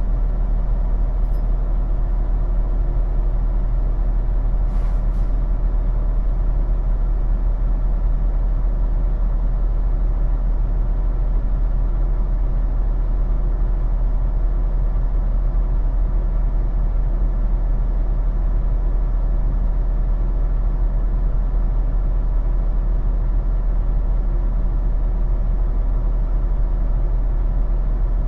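Semi truck's diesel engine idling steadily with a deep, constant hum. A short hiss sounds about five seconds in.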